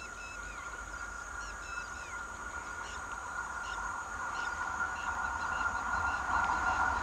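Birds chirping, with a steady high hum, while the noise of an approaching electric train grows steadily louder toward the end.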